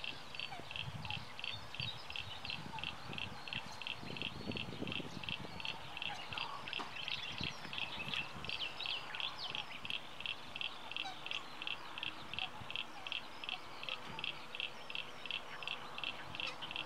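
Outdoor birdsong: a high call repeated very evenly, about three times a second, with scattered short chirps over it. A low rumble comes through around four to five seconds in.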